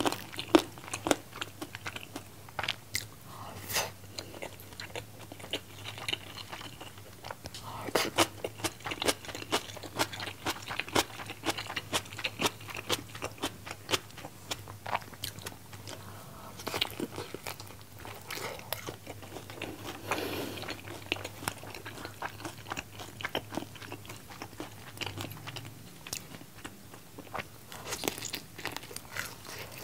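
Close-miked eating of sauced fried chicken with rice: steady chewing and biting, with many crisp crunching clicks.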